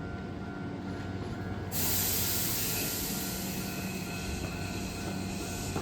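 Hankyu 8000-series train standing at the platform with a steady low hum and a few faint steady tones from its equipment; about two seconds in a loud air hiss starts suddenly and keeps going.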